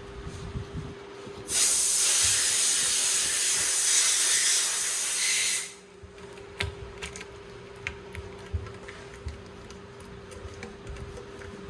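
A steady, loud hiss of gas escaping under pressure lasts about four seconds and cuts off sharply, followed by a few light workshop clicks and taps.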